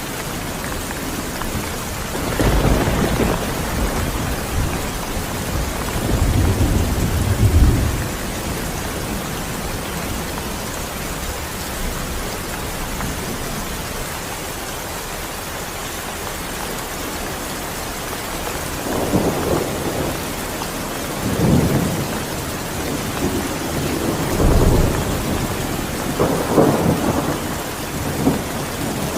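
Steady rain falling, with several low rolls of thunder rumbling through it: one about two seconds in, another around six to eight seconds, and a cluster in the last ten seconds.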